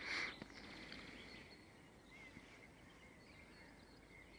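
Faint bird song in the distance: a few short, high chirps over a low hiss, after a brief rush of noise at the very start.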